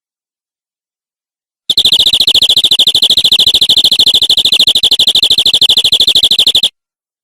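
Domestic canary singing one long, rapid trill at an even high pitch for about five seconds. It starts abruptly about two seconds in and cuts off sharply, with dead silence either side.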